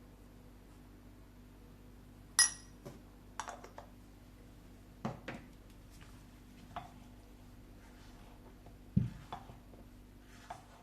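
Kitchenware being handled: dishes and utensils clink and knock about eight times, with one sharp ringing clink of glass or china about two and a half seconds in and a dull thump near the end, over a steady low hum.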